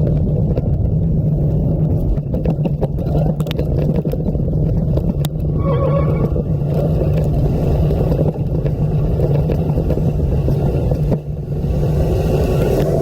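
Steady low rumble of wind buffeting the microphone on a moving mountain bike, with scattered clicks and knocks from the bike over the trail in the first few seconds.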